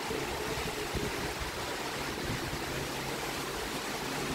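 Steady rushing noise of an electric express train approaching along the line, with a faint low hum under it.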